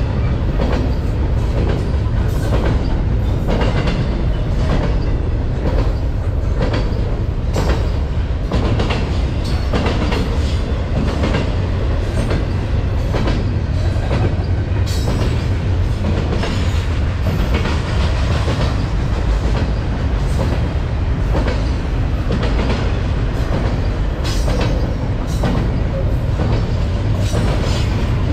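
Double-stack container freight train's well cars rolling past: a steady, loud rumble of steel wheels on rail, with frequent clicks and knocks over the rail joints.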